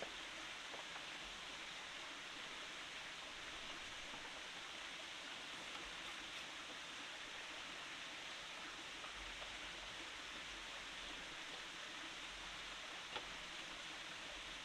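Steady rushing of a forest stream, with a few faint clicks and one slightly sharper knock near the end.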